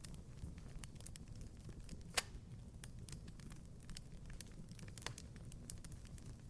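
Wood fire crackling in a fireplace: a low steady rumble under scattered small pops and snaps, with one sharper pop about two seconds in and another a little after five seconds.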